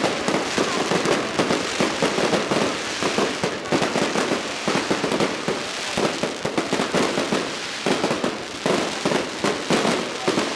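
Firecrackers and fireworks set off electronically from flatbed trailers, going off in a dense, continuous crackle of rapid pops, with louder clusters of bangs now and then.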